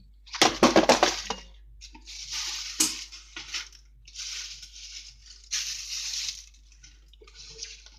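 Packets and boxes of tea and drinks being handled: several bursts of rustling and crinkling, the loudest near the start, with a sharp knock of something set down about three seconds in.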